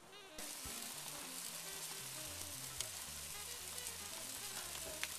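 Chopped peppers, onions, garlic and tomatoes sizzling and crackling in olive oil in a hot pan, starting suddenly about half a second in. Soft background music underneath.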